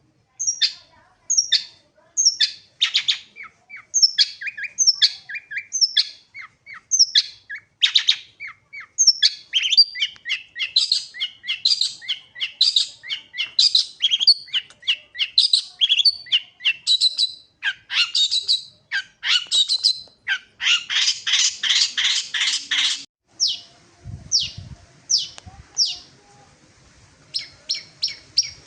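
Long-tailed shrike (cendet) singing non-stop: a fast string of short, sharp chirping notes, with a dense run of rapid chattering notes about three-quarters of the way through.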